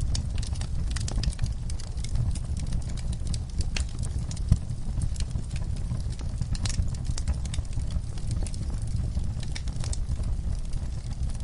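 Wood fire burning, crackling with many small irregular snaps over a low steady rumble of the flames, with one louder pop about four and a half seconds in.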